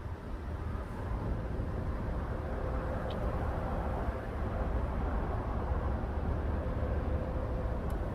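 Steady low rumble of a vehicle driving, engine and road noise heard from inside the cabin, growing a little louder about a second in.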